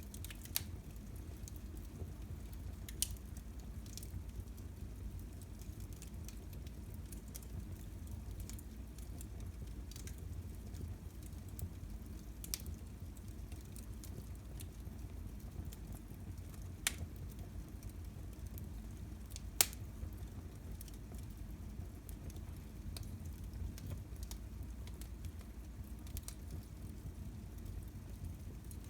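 Wood fire burning in a fireplace: a steady low rush with scattered sharp pops and crackles, about one every few seconds, the loudest about two-thirds of the way through.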